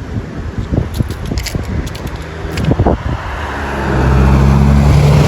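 An engine drawing nearer: a steady low hum that grows louder through the second half, with some crackle and clicks on the microphone before it.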